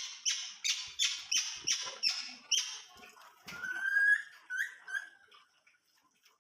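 Pet birds calling: a quick run of about eight harsh, scratchy calls, then a few short rising whistled notes.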